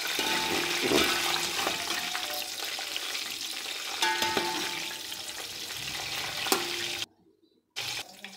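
Chicken koftas sizzling as they fry in hot oil in a steel pot, with a metal slotted spoon scraping and clinking against the pot as they are turned. The sound cuts off abruptly about seven seconds in.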